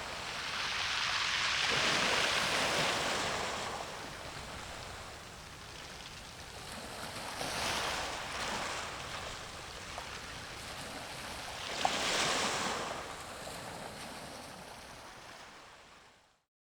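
Sea waves washing in, swelling and ebbing about every four to five seconds, with some wind. The sound fades and cuts off near the end.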